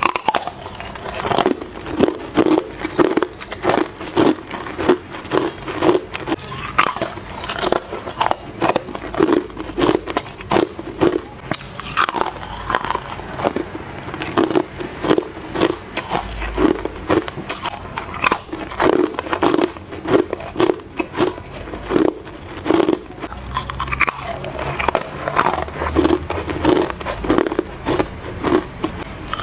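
Hard ice being bitten and crunched between the teeth, close to the microphone: a dense run of sharp cracking crunches, several a second.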